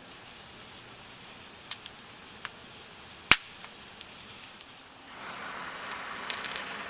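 Campfire wood crackling, with a few sharp, separate pops, the loudest about halfway through. About five seconds in a steady hiss comes up under a quick run of crackles.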